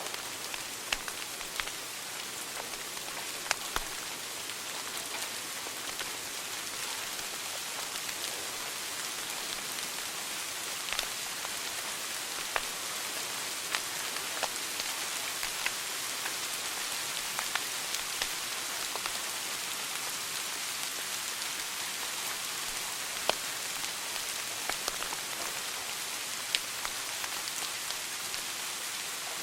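Wood fire burning in a fireplace: a steady hiss with irregular crackles and sharp pops, a few of them louder than the rest.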